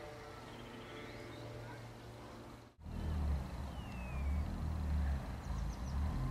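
A steady distant engine drone, then a sudden cut about three seconds in to a louder low rumble, with a few faint, short, high bird chirps and one falling whistle.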